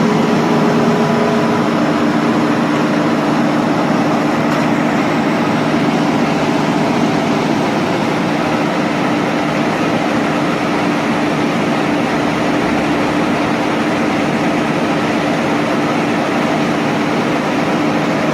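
Steady hum of running machinery: an even mechanical noise with a few steady low tones, unchanging throughout.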